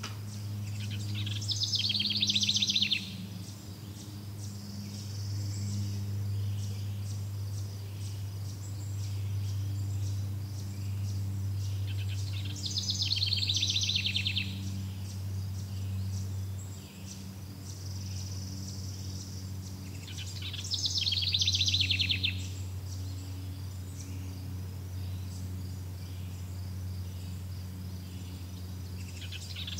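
A songbird repeating a short, fast trilled phrase three times, eight to eleven seconds apart, with a fourth starting near the end. Underneath are a steady low hum and, at times, a faint high insect buzz.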